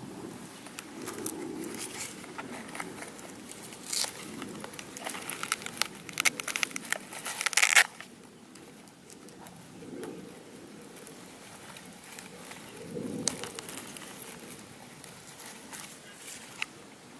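Crinkling, crackling handling noise from craft materials being worked by hand, with a dense run of clicks and crackles from about four seconds in that stops abruptly near eight seconds. Quieter scattered handling sounds follow.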